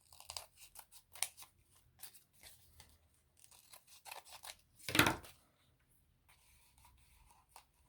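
Scissors snipping through thin cardboard stock in a quick run of short cuts, with one louder snip or crunch about five seconds in, then a few quieter seconds.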